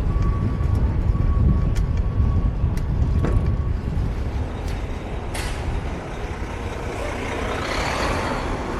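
City street traffic heard from a moving bicycle, with wind rumbling on the microphone. A thin steady whine stops a little under four seconds in, and a hiss swells near the end.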